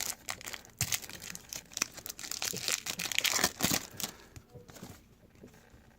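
Trading card pack wrapper crinkling and tearing as it is opened, busiest in the first four seconds and dying down after.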